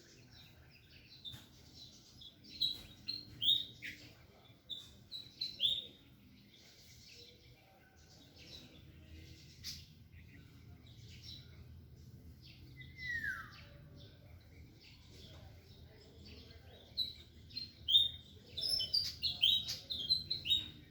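Small birds chirping in two busy bursts of quick high notes, one a few seconds in and one near the end, with a single downward-sliding call in between.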